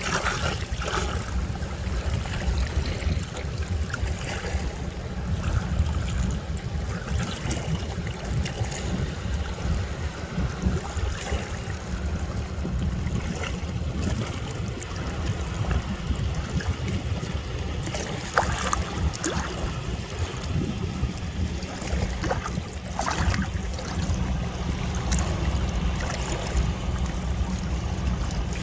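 Seaside ambience: waves washing on the shore under a steady low rumble, with a few faint clicks.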